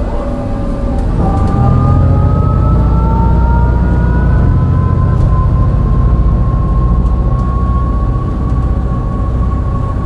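MAN NL202 CNG bus engine pulling hard uphill, which the owner says has a bad misfire. Its ZF Ecomat five-speed automatic gearbox whines throughout: the whine drops at a gear change about a second in, then rises slowly as the engine grows louder under load.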